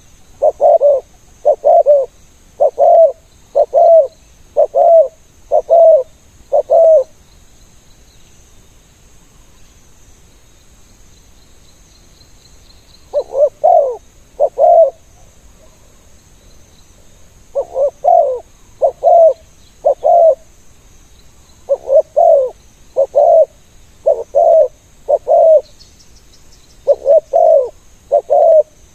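Spotted dove cooing: loud, low coo notes about one a second in runs of several, with a pause of several seconds after the first run. Faint high insect buzzing runs underneath.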